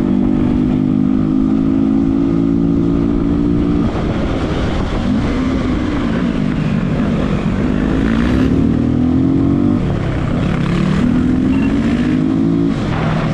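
Motorcycle engine running hard during a chase. It holds a steady pitch for a few seconds, then climbs twice under acceleration, dropping back after each climb.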